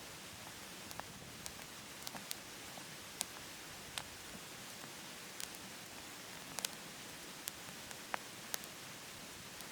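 Wood burning in a wood stove: sharp, irregular crackles and pops, about one or two a second, over a steady hiss.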